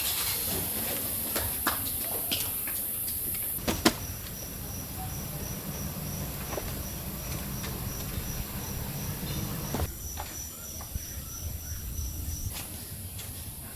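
Scattered clicks and a sharp knock about four seconds in, then an insect chirping in a fast even pulse train that stops near the end.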